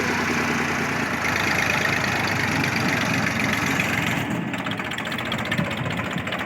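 Old tractor engine running steadily with a fast, even pulsing.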